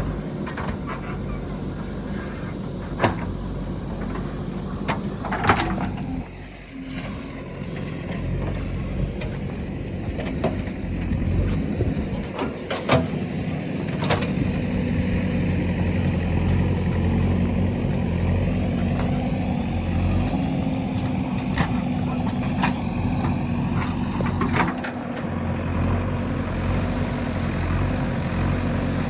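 JCB 3DX backhoe loader's diesel engine running as the machine works, its pitch rising and holding steadier through the second half. Sharp metallic clanks break in several times.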